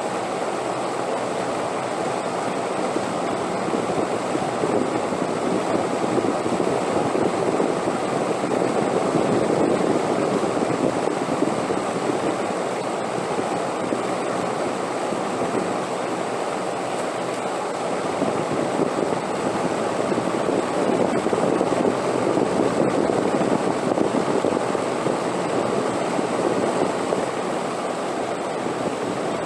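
Steady rushing wind with no distinct events, swelling slowly to two gentle peaks, about a third of the way in and again near three quarters, then easing.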